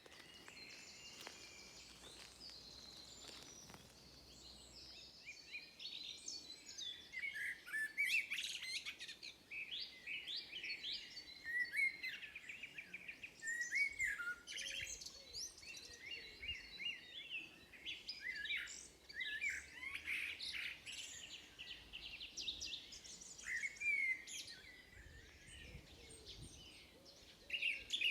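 Several songbirds singing and chirping at once in a dawn chorus of overlapping chirps, trills and whistled notes, sparse at first and growing busier about five seconds in.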